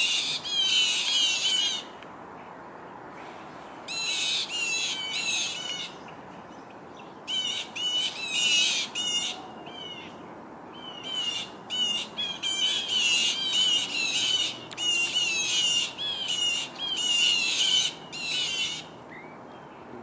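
Small birds giving rapid, high-pitched scolding calls in bouts of a second or two with short pauses: mobbing calls aimed at a perched owl.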